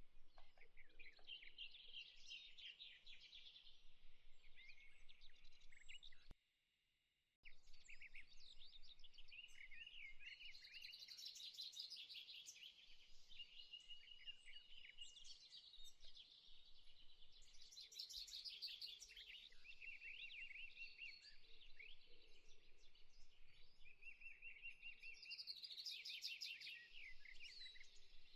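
Faint birdsong: many small birds chirping and trilling over a soft steady hiss. It cuts out completely for about a second some six seconds in, then resumes.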